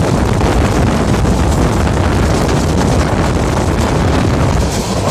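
Wind buffeting the microphone over the rumble of a moving passenger train.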